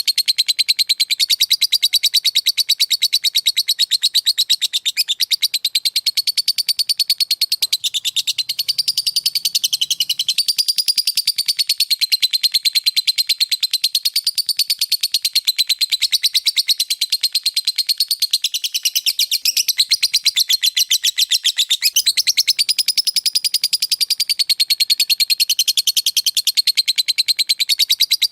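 Lovebird singing a long, unbroken ngekek: a fast, typing-like run of high-pitched chirps, many a second, with no pause for breath.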